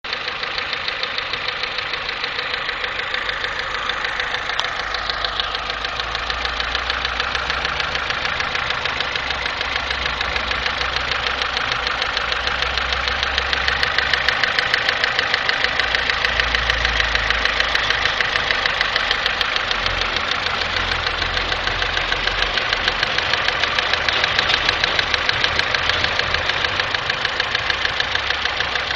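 Daewoo Nexia's G15MF 1.5-litre four-cylinder engine running with a fast, even knock that is the knock in question, getting a little louder about halfway through.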